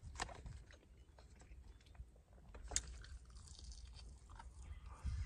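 A person chewing and biting into fried chicken, close to the microphone, with a couple of sharp clicks along the way over a low steady rumble.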